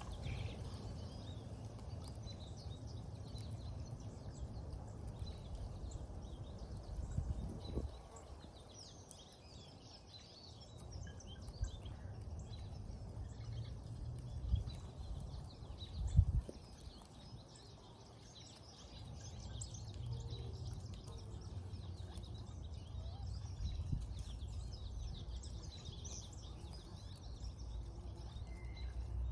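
Small birds chirping in the background over a steady low rumble, with a few short thumps, the loudest about sixteen seconds in.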